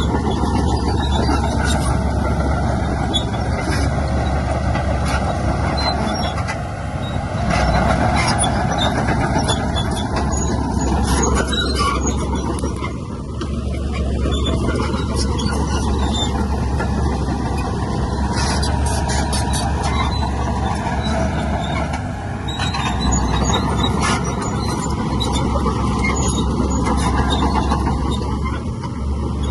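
Heavy diesel earthmoving machinery running steadily under load, the engine pitch slowly rising and falling, with scattered short metallic clanks.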